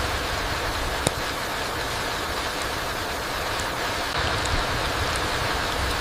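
Steady rain falling through trees onto the forest floor, an even hiss with a deep rumble beneath it. One sharp click about a second in stands out above the rain.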